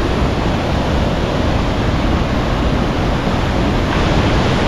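Loud, steady rushing of a large waterfall close by, with a deep rumble underneath; it cuts off suddenly at the end.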